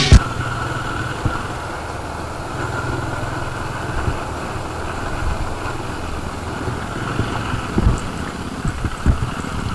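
Benelli Imperial 400 single-cylinder motorcycle engine running steadily, with a few dull low thumps about four, eight and nine seconds in.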